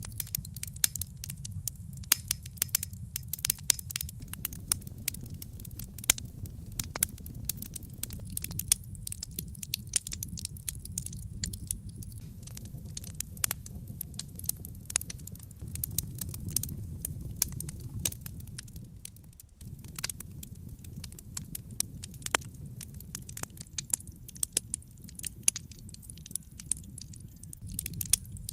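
Wood fire burning in a fireplace: dense, irregular crackles and sharp pops from the burning logs over a steady low rumble of the flames.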